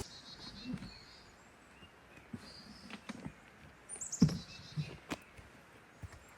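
Small birds chirping with short high calls and one quick falling whistle about four seconds in, over a few scattered light knocks, the loudest about four seconds in.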